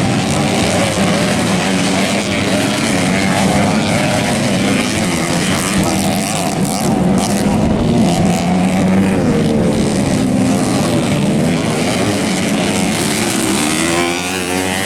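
Several dirt-bike engines revving during a grasstrack or motocross race, their pitches rising and falling with the throttle.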